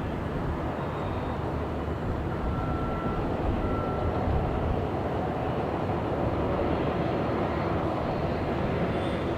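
Jet airliner on landing approach, a steady engine noise that grows a little brighter near the end.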